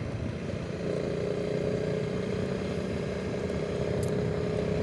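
Honda CRF300 Rally's single-cylinder four-stroke engine running at a steady cruise with wind noise; a steady hum settles in about a second in.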